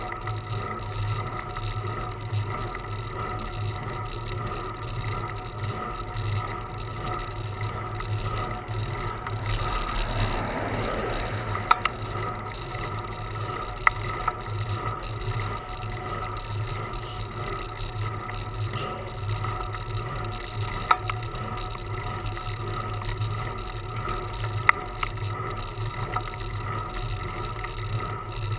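Bicycle on the move: a steady hum and whir of the ride, with a few sharp clicks and a brief swell of noise about ten seconds in.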